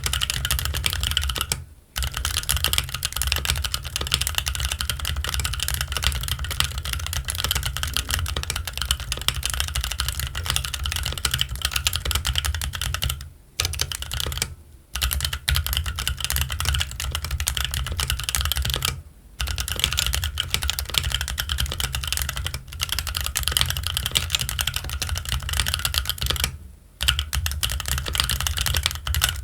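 Keychron Q1 mechanical keyboard with Gazzew Boba U4T tactile switches and Cherry-profile ABS keycaps, typed on in fast, continuous runs with a few brief pauses.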